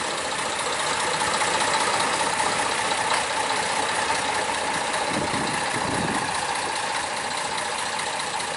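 1946 F.C. Hibberd Planet narrow-gauge diesel shunting locomotive, its 28 horsepower engine running steadily.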